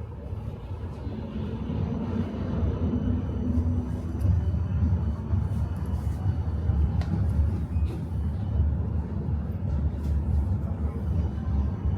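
Tram pulling away from a stop and running along the line: a low rumble of wheels and motors builds over the first few seconds, with a brief motor hum early in the pull-away, then holds steady.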